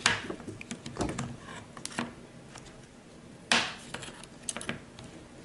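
Plastic clicks and knocks from a Milwaukee bit-kit case being handled as its hinged bit holders are flipped up and tipped back. There are a few separate taps about a second apart, with the sharpest knock about three and a half seconds in.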